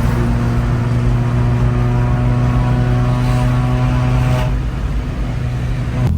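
Car engine and exhaust droning at a steady cruising speed, holding one pitch, then easing off slightly over the last couple of seconds.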